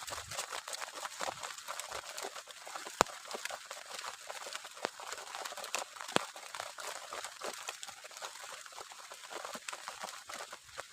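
Heavy rain falling steadily as an even hiss, broken by scattered sharp drip impacts. The loudest impact comes about 3 seconds in.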